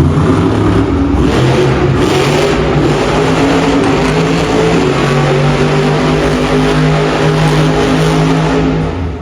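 Monster truck engine revving hard during a freestyle run, its pitch rising and falling, then holding a steady high note for several seconds before dropping off near the end.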